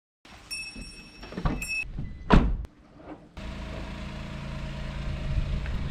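Car engine running steadily, heard from inside the vehicle, after a few clicks, short high tones and one loud whoosh about two seconds in.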